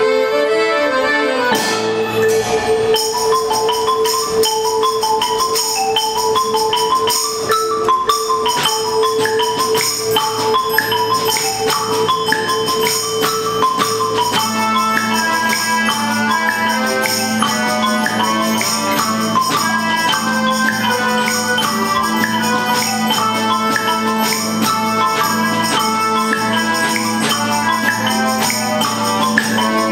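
Children's percussion band playing: a xylophone and glockenspiel melody over tambourine, with a held low note underneath that drops to a lower pitch about halfway through.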